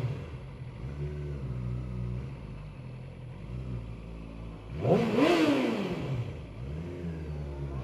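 Yamaha R6 sportbike's inline-four engine idling through its exhaust, with one quick rev about five seconds in that climbs and drops back to idle within about a second.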